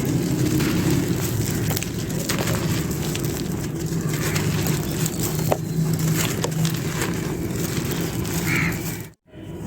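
Fully dry clay pot pieces being crushed and crumbled, a continuous crunching and crackling with small sharp snaps scattered through it. It cuts out abruptly for a moment near the end.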